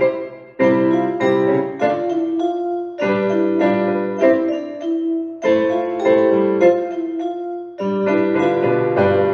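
Music: a recorder duet with piano accompaniment, playing sustained melody notes over chords in slow phrases with short breaks between them.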